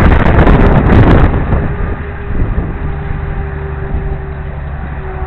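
Wind buffeting a helmet-mounted camera's microphone while cycling: a loud rushing that eases about a second and a half in and settles to a lower, steadier rush.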